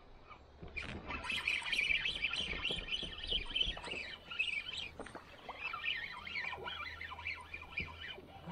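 Birds chirping and chattering, many short calls overlapping, starting about a second in.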